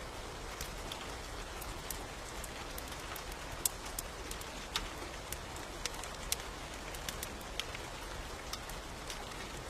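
Steady rain falling, with many scattered sharp ticks of single drops.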